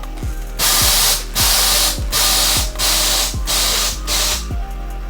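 Compressed air hissing loudly from a semi truck's air system, in about five bursts with short breaks between them, as the air-operated equipment on the car hauler is worked. Background music with a steady beat plays underneath.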